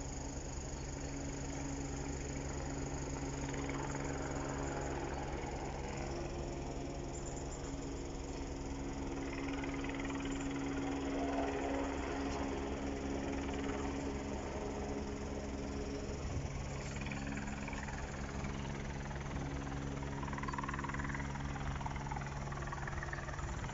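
An engine idling steadily, a low even hum with a few steady tones.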